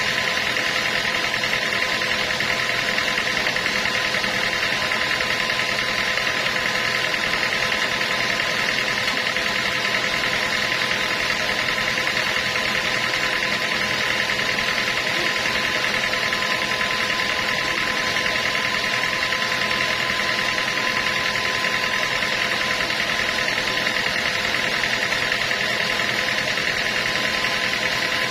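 Sawmill machinery running steadily, a constant mechanical drone with a fixed whine and no change in pitch or level.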